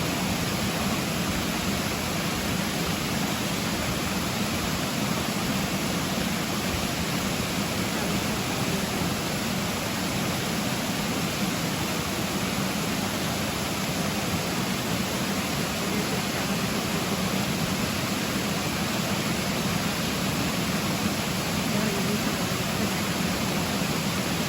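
Rushing water of a rocky stream, a steady unbroken rush.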